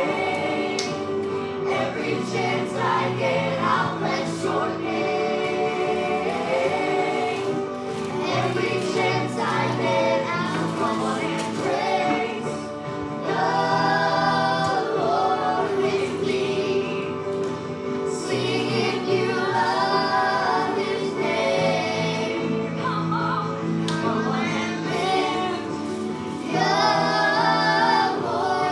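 Church worship music: a group of voices singing a hymn with steady instrumental accompaniment.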